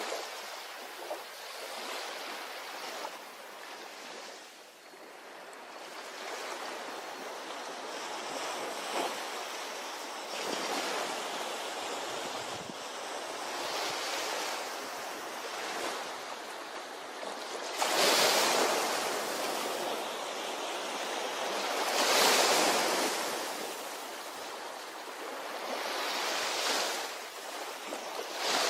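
Ocean waves breaking on a beach in a steady rushing wash, with bigger waves surging up about 18, 22 and 27 seconds in.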